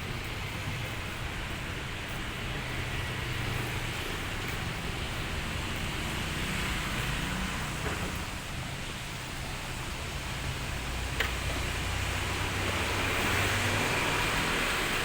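Steady city street traffic: passing vehicle engines running with a constant rumble and hiss, getting a little louder near the end. A single sharp click sounds about eleven seconds in.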